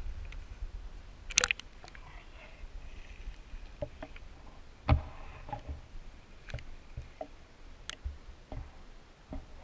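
Scattered clicks and knocks over a low rumble, from a handheld camera being handled. The sharpest knocks fall about a second and a half in and about five seconds in.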